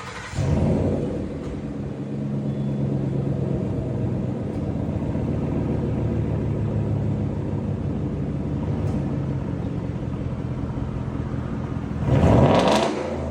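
Ford 5.0 V8 of a 2013 F-150 breathing through a Corsa cat-back muffler and stainless tailpipe with a dual side-exit tip: it starts with a loud flare, settles to a steady deep idle, and is revved once briefly near the end.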